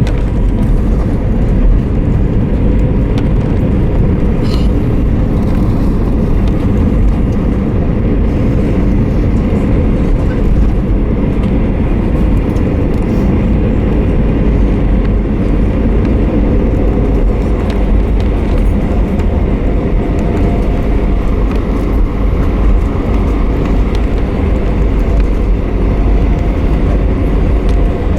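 Steady rumble inside an Airbus A320 cabin from the engines and airflow, with no distinct thumps or changes.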